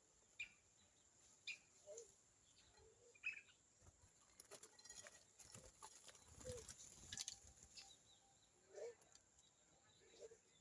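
Birds at a feeding tray: scattered short, faint chirps and calls, with sharp clicks and a brief cluster of knocks and rustling about halfway through.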